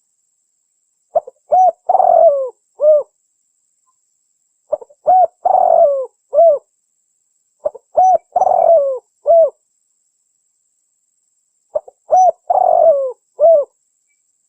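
Spotted dove (tekukur) cooing: four phrases, each of a few short notes with a longer, falling middle note, repeated every three to four seconds. It is a recorded lure call, used to draw in wild doves.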